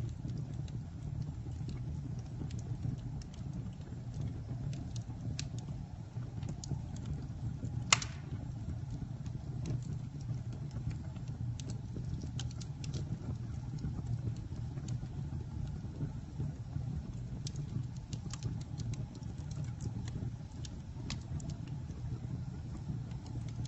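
Campfire crackling: scattered snaps and ticks, with one loud pop about eight seconds in, over a steady low rumble.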